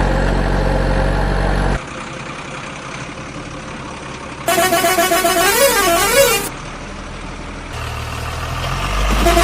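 Electronic toy-vehicle sound effects: a steady low engine drone that stops a couple of seconds in, then a short warbling horn tune of about two seconds, and near the end the engine drone swells up again.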